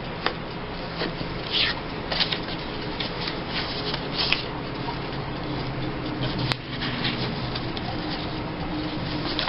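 Loose paper cut-outs rustling and shuffling as they are handled and sorted through, with one sharp click about six and a half seconds in.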